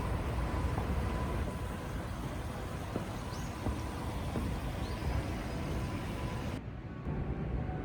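Steady city traffic noise, a low rumble with hiss, with two brief high bird chirps about halfway through.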